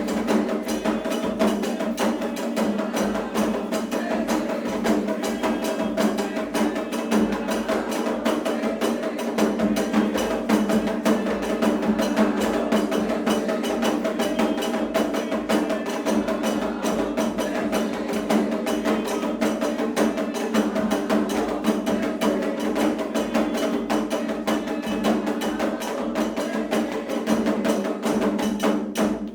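Candomblé ritual percussion: fast, dense drumming with a hard, woody clacking beat over a steady sustained tone.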